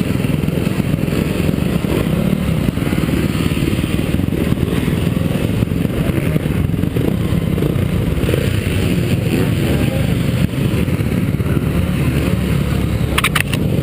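Honda CRF250 four-stroke motocross bike engine running, heard through an onboard action camera with a heavy rush of low noise over the microphone. A few sharp clicks near the end.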